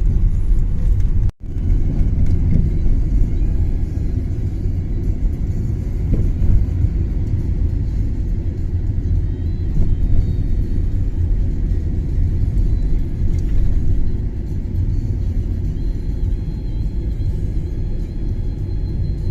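Car driving on a snow-covered road: a steady low rumble of road and engine noise. The sound cuts out sharply for an instant a little over a second in.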